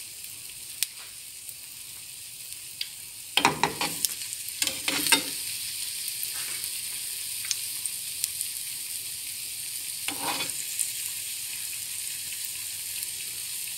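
Egg-soaked slice of bread sizzling in hot desi ghee in a frying pan: a steady high hiss with scattered crackles, briefly louder a few times between three and five seconds in and again around ten seconds.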